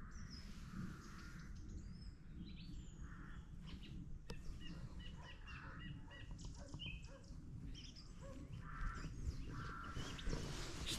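Dogs at a kennel barking in the distance, faint and repeated, with birds chirping.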